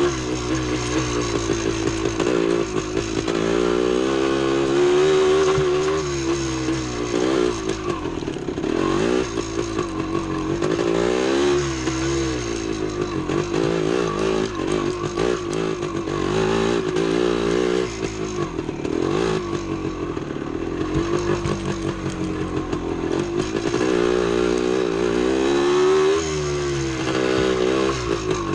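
1975 Yamaha DT250's single-cylinder two-stroke engine running under load, its pitch rising and falling over and over as the throttle is opened and closed.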